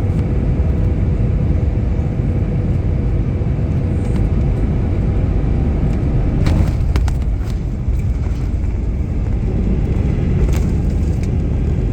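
Steady low rumble in the cabin of an Airbus A319 airliner during landing, with a few brief knocks about six and a half and ten and a half seconds in.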